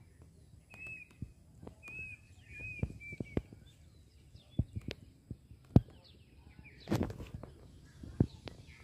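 Birds chirping in short repeated high notes during the first few seconds. Scattered footsteps and knocks run throughout, with a louder knock just before six seconds and a brief rustle about seven seconds in.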